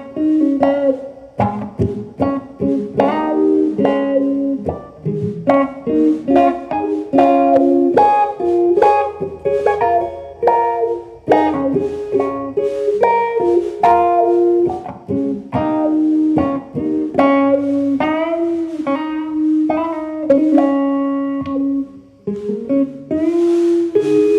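Solo guitar picking a melody of single plucked notes, with a few slid or bent notes along the way and a strummed chord near the end.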